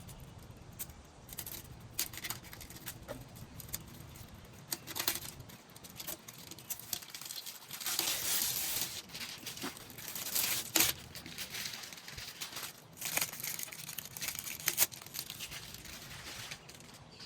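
Scattered clicks, light clanks and rustling as hand tools and hardware are handled in a car's engine bay while a strut tower bar is being fitted, with a longer rustle about halfway through.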